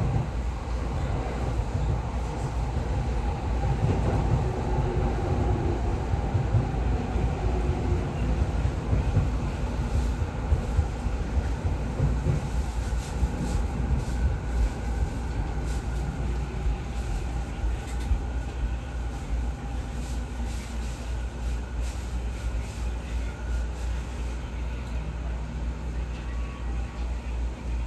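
Electric commuter train (a Tokyo Waterfront Area Rapid Transit 70-000 series) heard from inside, running on the rails with a steady rumble. A faint motor whine comes in the first several seconds as it approaches a station.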